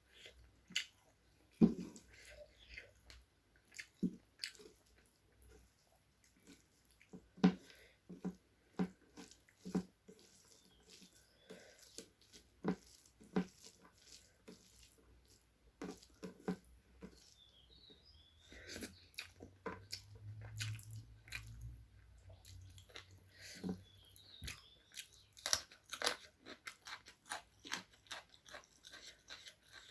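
Close-up mouth sounds of eating chicken curry with rice: chewing and biting, with irregular sharp clicks scattered all through.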